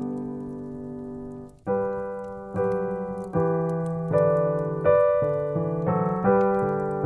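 Piano music: a held chord fades for about a second and a half, then a slow passage of struck notes and chords, each ringing and dying away.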